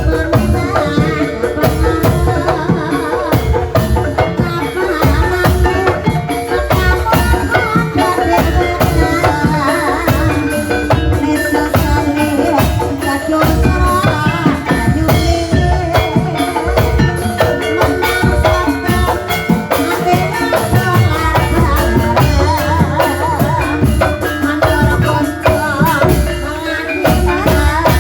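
Javanese gamelan music accompanying an ebeg horse-trance dance: dense, fast drumming over steady ringing metal-keyed instruments, playing on without a break.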